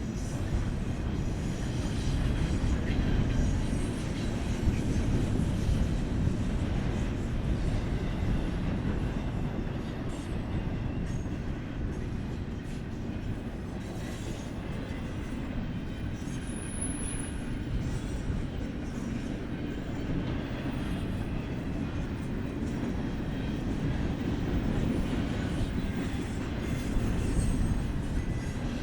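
BNSF freight train rolling past: a steady rumble of steel wheels on the rails, with a brief high wheel squeal about two-thirds of the way through.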